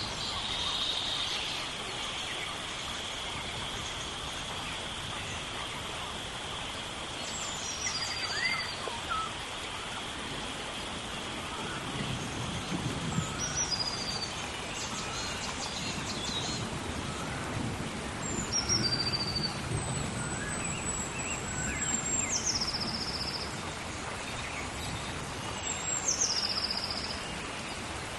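Steady rain falling in a tropical rainforest, with birds calling over it: several high whistled calls that drop in pitch into a short trill, one of them held long before the drop. A steady high insect-like drone fades out in the first few seconds, and a low rumble rises and falls in the middle.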